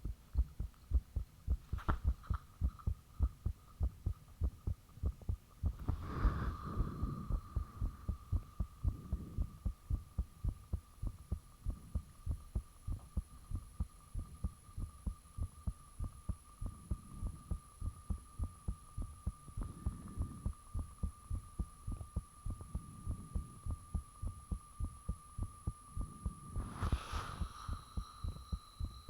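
A person's own heartbeat recorded up close: regular, heavy low thumps repeating steadily. A steady high-pitched tone runs underneath from about six seconds in until shortly before the end.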